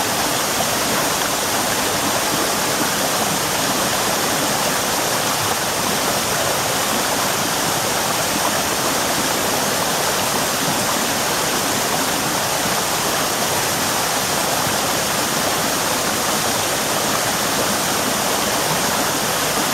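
Cabin Creek waterfall: water falling and rushing over rock in a steady, even roar.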